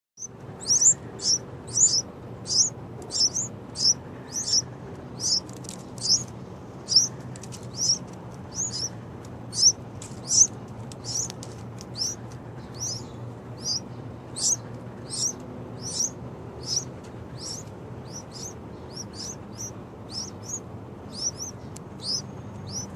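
Two young yellow-vented bulbuls calling, very loud: a steady run of short, high, sharp chirps, about two a second, sometimes doubled.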